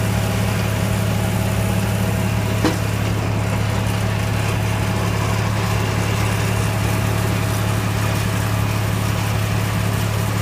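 Tractor engine running steadily with a pneumatic seed planter, a steady hum with a faint steady whine above it, and one short click about two and a half seconds in.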